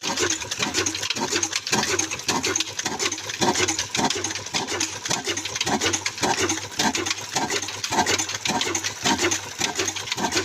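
Old black desi single-cylinder diesel engine running steadily with a regular beat of about two to three knocks a second, over a steady hiss and low hum from the engine and flour-mill machinery.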